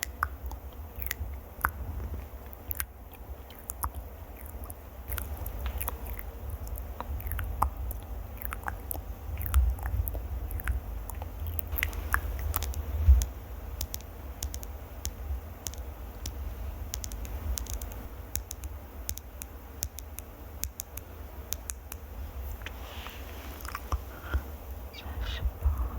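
Close-miked ASMR trigger sounds: a stream of small, sharp crackling clicks over a low rumble from handling right at the microphone.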